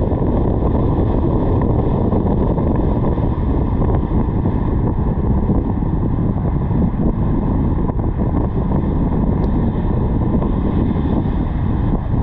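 Steady wind rush buffeting a roof-mounted GoPro's microphone while the car drives, with road noise underneath.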